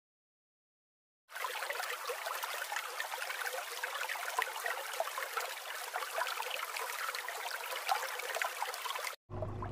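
Steady rushing, crackling hiss of water, like surf washing and fizzing on a sandy beach. It starts suddenly about a second in and cuts off abruptly near the end, with no animal calls heard.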